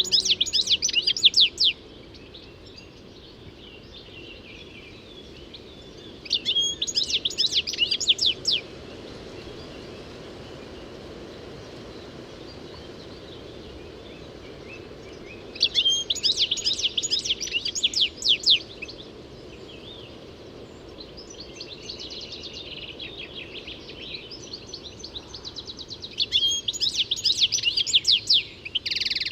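European goldfinch singing: four bursts of rapid, high twittering notes a few seconds long, with fainter song in between, over a steady low background noise.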